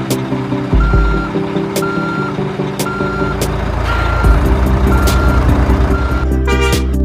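Truck reversing alarm beeping six times, a steady high tone about once a second, over a low engine rumble.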